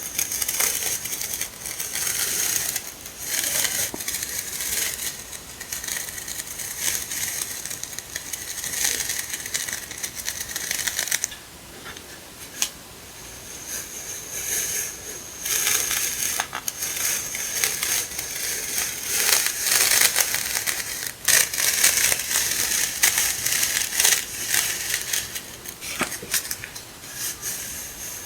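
Rustling and crinkling of paper and plastic packaging, with small taps and clicks, as sticker sheets are handled and unpacked.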